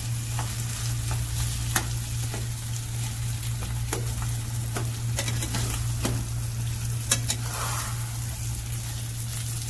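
Spiced, half-mashed potatoes sizzling as they fry in oil in a nonstick pan, stirred and scraped with a silicone slotted spatula, which clicks against the pan now and then. This is the sauté (kosha) stage, before water is added. A steady low hum runs underneath.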